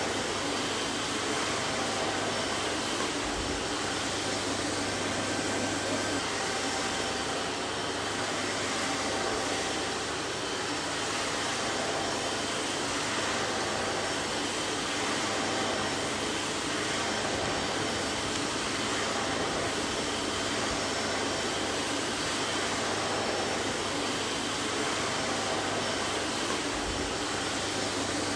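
Vacuum cleaner running steadily: an even rushing air noise over a low motor hum.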